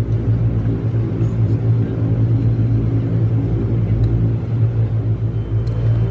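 Cabin drone of an ATR-42-300's twin turboprop engines and propellers, heard from inside the passenger cabin: a steady, loud hum with a strong low tone and a rumble beneath it.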